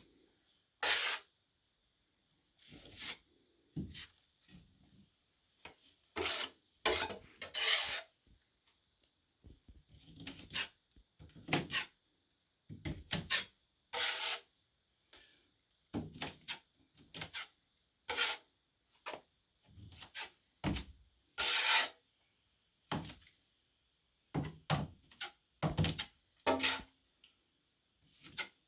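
Drywall trowel spreading and scraping joint compound over a drywall patch: a string of short scraping strokes with pauses between them.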